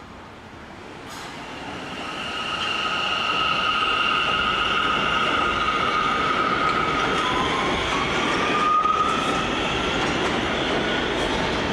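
R179 subway train running, growing louder over the first few seconds, with high steady whining tones over the rumble and a shorter whine that rises in pitch about eight seconds in.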